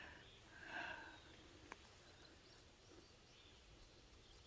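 Near silence: faint outdoor field background, with a faint short call about a second in and a single small click a little later.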